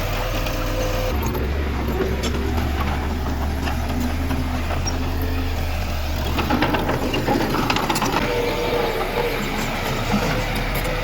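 Heavy earthmoving machinery's diesel engine running steadily with a deep rumble. In the second half, a stretch of clattering and knocking.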